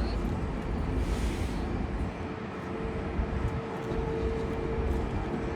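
Jet airliner engines making a continuous rumble, with a steady hum that grows stronger about halfway through.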